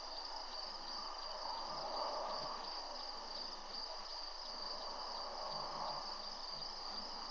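Dusk insect chorus: a steady, high-pitched chirring over a faint rushing background noise.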